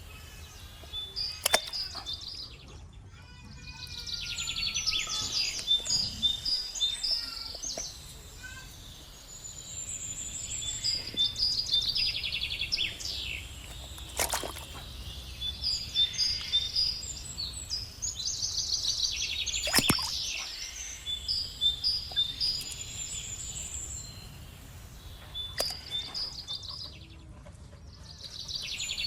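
Birds chirping and trilling in repeated bursts of high calls, over a steady low hum, with a few sharp clicks.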